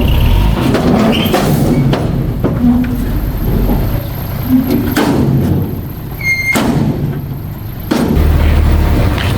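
Diesel earthmoving machinery running with a low rumble and scattered metal clanks and knocks. A short high beep sounds a little past six seconds, and a steadier low engine drone takes over near the end.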